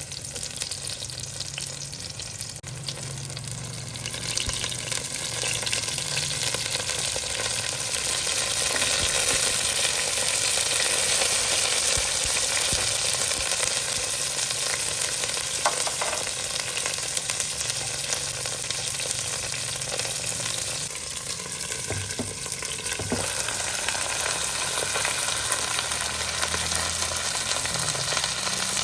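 Food sizzling in hot oil in a pan, louder about four seconds in and then steady, with a few light knocks as it is stirred.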